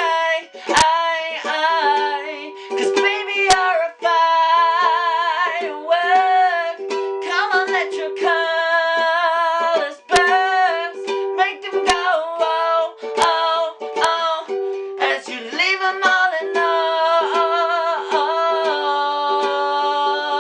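Ukulele strummed in chords, with a voice singing along in long, wavering notes, in a small room.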